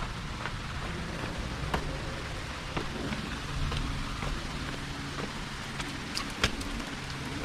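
Footsteps crunching on a woodland trail: scattered short crunches and ticks, two sharper ones about 2 seconds and 6 seconds in, over a steady low rumble.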